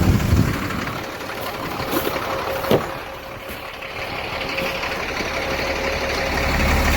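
Old Chevrolet pickup's engine idling steadily, with a sharp click about three seconds in.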